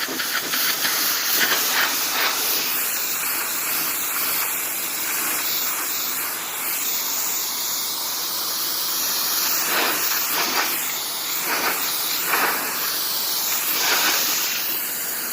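Pressure washer jet spraying water onto a car's body: a steady, continuous hiss, with brief louder surges several times in the second half.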